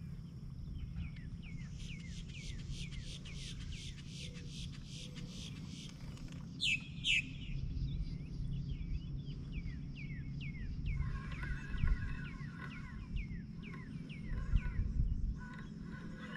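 Wild birds calling: a quick run of short falling chirps, two loud sharp sweeping calls about seven seconds in, then harsher chattering calls in the last few seconds, over a steady low rumble.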